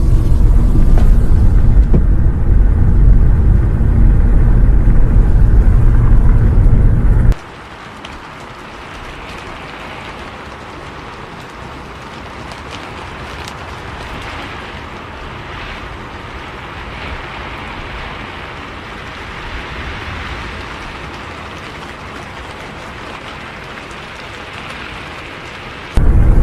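Loud, deep, steady rumble of a bus ride heard from inside the cabin. About seven seconds in it cuts off sharply to a much quieter, even hiss of rain, and the rumble cuts back in just before the end.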